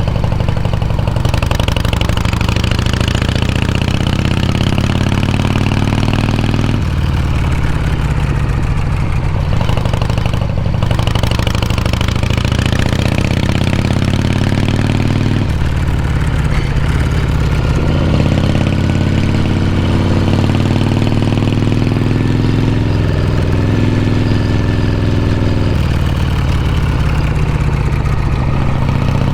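Harley-Davidson Shovelhead V-twin motorcycle accelerating on the road. The engine's pitch rises steadily, drops back at each gear change (about a third of the way in, around halfway, and near the end) and climbs again.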